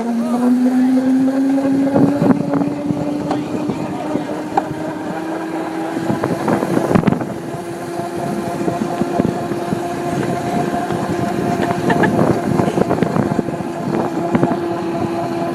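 Mini bike's small engine running under throttle, its pitch climbing over the first few seconds and then holding steady, with scattered knocks and rattles over it.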